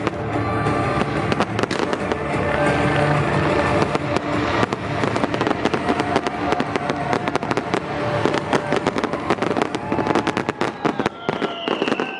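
Fireworks display: rapid cracks and bangs going off over loud show music, the bangs growing denser in the second half.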